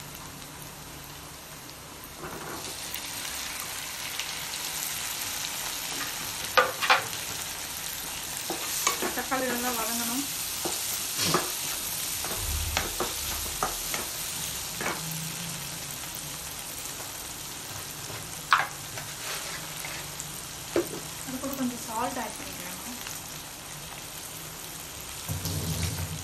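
Chopped onions, green chilli and tomatoes sizzling in butter and oil in a kadai, the frying getting louder about two seconds in as the tomatoes go in. A wooden spatula stirs and scrapes against the pan now and then.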